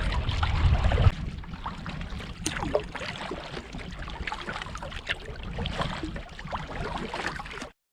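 Light splashes and drips of water from paddle strokes beside a canoe on a lake. Wind buffets the microphone for about the first second.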